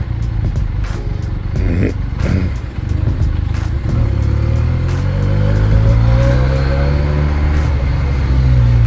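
Benelli 300 parallel-twin motorcycle engine under way, its note climbing steadily from about four seconds in as the bike accelerates and then holding high.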